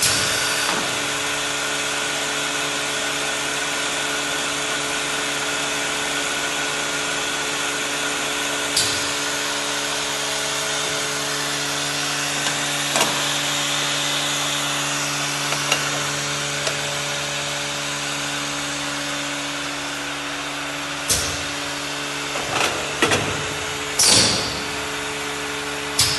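Capsule filling machine running: a steady motor hum with several held tones, with a few sharp clicks or knocks scattered through it and a quick cluster of them near the end.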